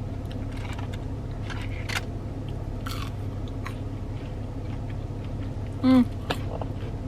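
Close-up chewing of French fries, with soft crunches and mouth clicks over a steady low hum. A short voiced sound, like an "mm", cuts in just before six seconds in.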